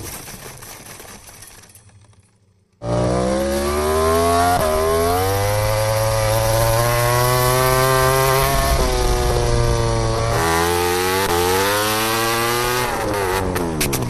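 MotoGP racing motorcycle engine at high revs, cutting in suddenly about three seconds in. Its pitch climbs through the gears, dropping back at each upshift, then falls away near the end as the bike slows.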